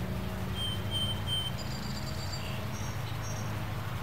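Outdoor background of a steady low hum, with a bird giving several short high chirps, three in quick succession and then a few more higher ones.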